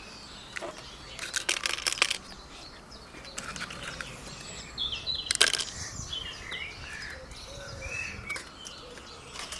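Plastic crinkling and rustling as dried-mealworm bait is put into plastic-bottle lizard traps, in short crackly clusters: about a second and a half in, around five seconds in, and again at the end. Small birds chirp in the background.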